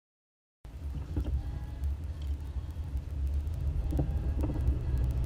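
Toyota FJ Cruiser driving: a steady low rumble of engine and road noise that cuts in abruptly about half a second in, with scattered sharp clicks that come more often near the end.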